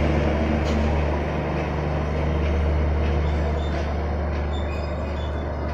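Passenger train coaches rolling slowly past at close range: an even rumble of wheels on the track over a steady low drone. Faint short high squeaks come in the second half.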